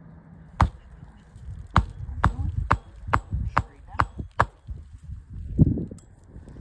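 Hammer driving a roofing nail into an asphalt shingle, lifted so the nail goes in straight down: about eight sharp strikes, one alone and then a run at about two a second, followed by a short lower sound near the end.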